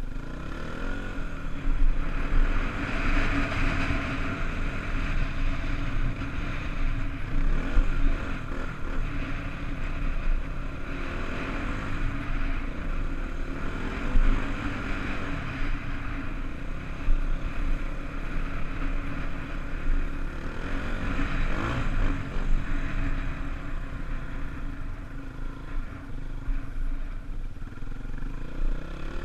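Honda dirt bike engine running under way, its revs rising and falling again and again with the throttle.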